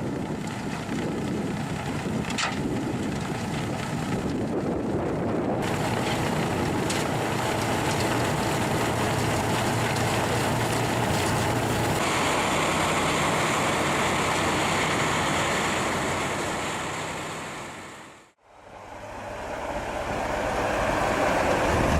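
Heavy Ural truck engine running under load, with wind buffeting the microphone. The sound changes abruptly about five and twelve seconds in, and near the end it fades to silence and back.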